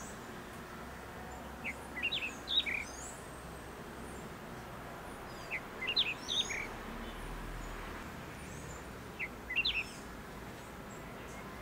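A bird calls three times, each call a quick cluster of short high chirps, about three and a half seconds apart, over faint outdoor hiss.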